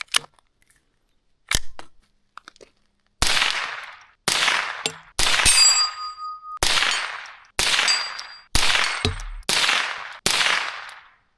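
A Ruger .22 rimfire fired shot after shot: one lighter report, then seven sharp cracks about a second apart, each trailing off in a short echo. A brief ringing tone follows one of the middle shots.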